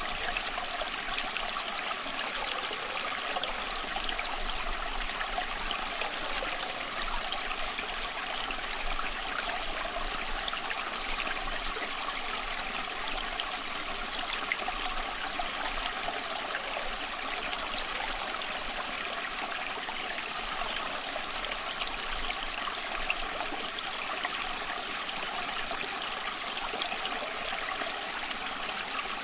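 Small stream flowing over rocks: a steady babble and trickle of water with fine splashing, unchanging throughout.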